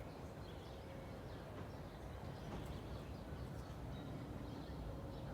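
Outdoor ambience: a steady low hum of traffic with faint, scattered bird chirps.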